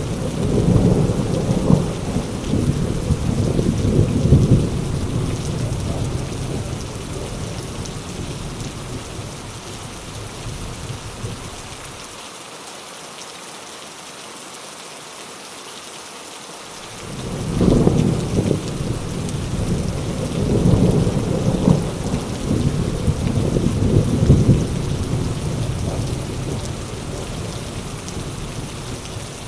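Heavy rain falling steadily with rolling thunder. A long low rumble fades out over the first several seconds, leaving rain alone for a few seconds. About halfway a second rumble swells up quickly, then slowly dies away toward the end.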